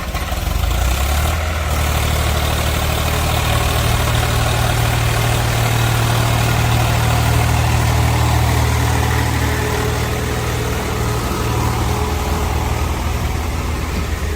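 A heavy diesel engine running steadily, its low note holding even throughout, a little louder after the first half-second.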